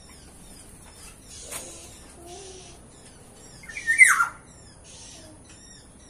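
Aviary birds chirping with many short, high, downward-sliding notes, and one loud, harsh call about four seconds in that drops steeply in pitch.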